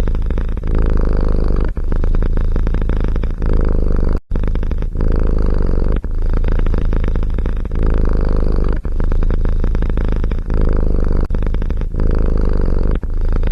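Domestic cat purring loudly and close up, a low rapid rattle broken by short pauses every second or two as it breathes in and out. It drops out abruptly for an instant about four seconds in.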